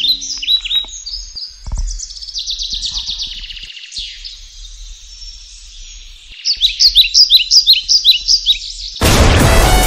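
Songbird chirping: runs of short, high, down-slurred chirps, quieter in the middle and then a fast, loud series. Electronic music cuts in abruptly near the end.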